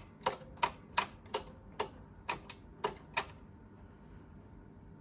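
Sharp mechanical clicks, about ten in three seconds at an uneven pace, then they stop. These are the push-button switches of a Tektronix DM501A multimeter plug-in being tried one after another on a unit that is completely dead.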